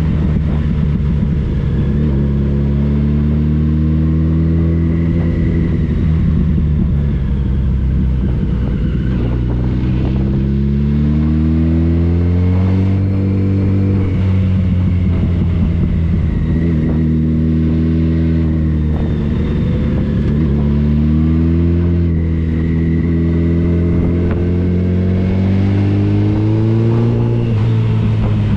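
Touring motorcycle engine running under way, its pitch climbing and dropping back a few times as it accelerates and shifts, over a steady rush of wind and road noise.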